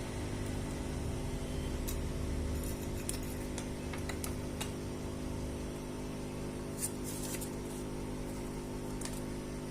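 Steady low hum with a few small, sharp clicks scattered through it; a low rumble underneath fades out about six seconds in.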